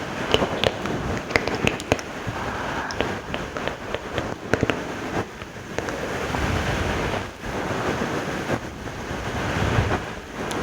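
Close-miked ASMR mouth sounds: a quick run of wet clicks and smacks through the first half, then steadier breathy noise.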